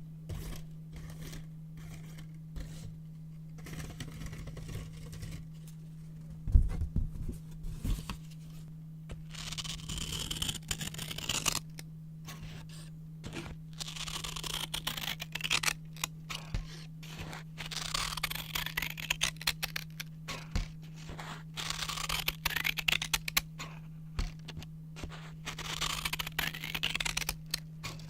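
Brown paper being cut with scissors and handled: crisp snips and papery rustling in quick irregular strokes, busier in the second half, with a low thump about six and a half seconds in. A steady low hum runs underneath.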